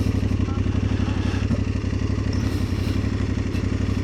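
Aprilia Tuareg 660's parallel-twin engine running steadily, an even low pulsing with no change in revs.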